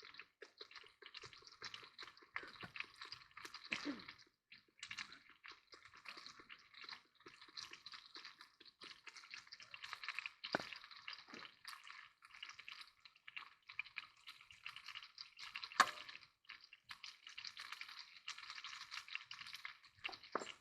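Steak sizzling as it fries in a pan on a wood stove: a dense, crackling spatter with a few sharper pops, the loudest about three-quarters of the way through.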